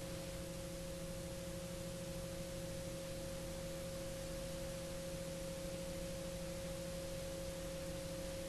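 A steady, unchanging hum made of a few constant tones over a faint hiss.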